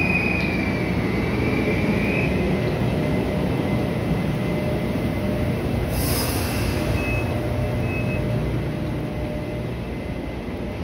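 Locomotive-hauled Chu-Kuang Express passenger train moving along the platform with a steady rumble of wheels. A high wheel squeal runs for the first couple of seconds, and a short hiss of air comes about six seconds in.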